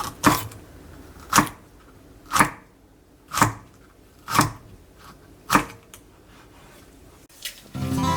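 Six sharp knocks about a second apart, then music starts near the end.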